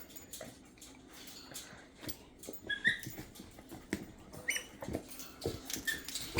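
Dogs chewing rubber squeaker toys: a few short, high squeaks, about three seconds in and again later, among small scattered clicks of chewing.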